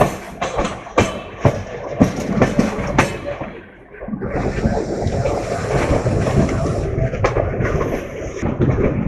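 Passenger train in motion: wheels clacking over rail joints in a run of sharp knocks, then a steady rush of running noise.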